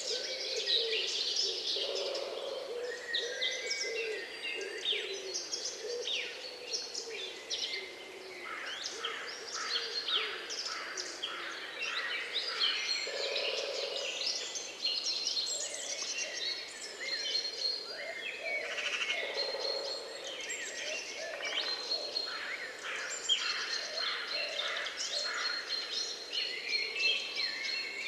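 A chorus of wild birds singing and calling at once: many quick overlapping chirps and trills, with lower held notes underneath.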